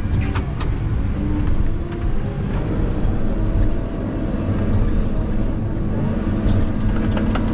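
Heavy logging machine's engine running steadily under load while logs are being stacked, with a few faint knocks.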